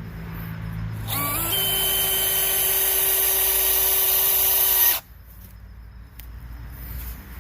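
DeWalt DCD996 cordless hammer drill on speed 1 driving a Spax screw into oak. About a second in, the motor whine climbs quickly to a steady pitch, holds for about four seconds, then stops suddenly.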